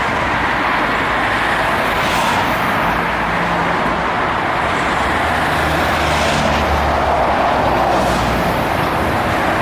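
Steady city road traffic, with engine hum underneath and three vehicles hissing past.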